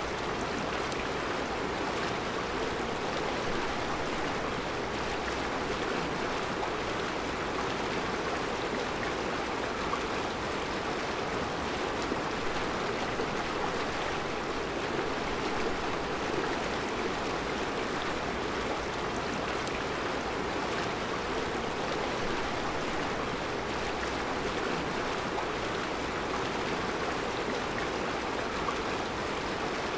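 Mountain river flowing over round rocks in a rocky bed: a steady, even rush of water with no pauses.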